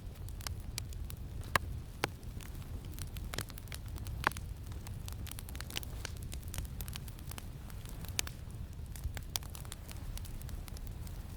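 Campfire crackling, with irregular sharp pops, the loudest a little over a second in, about four seconds in and about eight seconds in, over a steady low rumble of wind.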